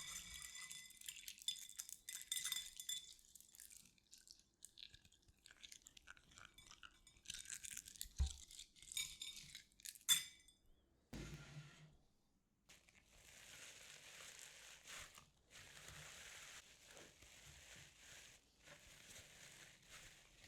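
Small hard objects clinking with a lingering metallic or glassy ring, then scattered taps and clicks with one sharp tap about ten seconds in. From about two-thirds of the way through, a series of soft, even hissing strokes of a second or two each.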